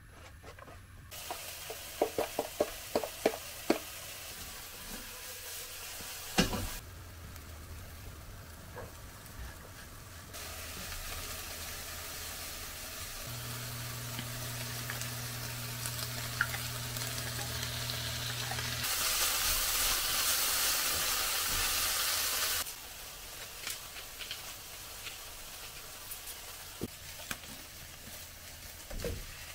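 Chopped onion, green pepper, mushroom and carrot sizzling in a frying pan, with a spatula tapping and scraping as they are stirred. A quick run of sharp taps comes about two seconds in, a low hum joins for several seconds midway, and the sizzle is loudest about two-thirds through before dropping suddenly.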